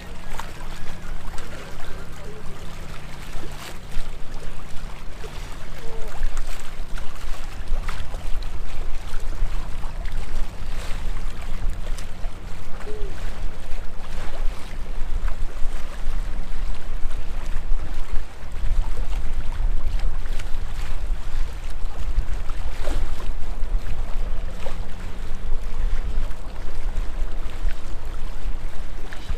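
Strong gusty wind buffeting the microphone: a loud, continuous low rumble with a faint steady low hum underneath.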